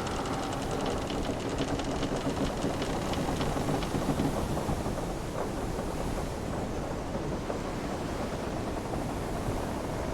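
Wooden sailing-ship ambience: a steady wash of sea and wind, with the ship's timbers creaking and ticking, most in the first few seconds.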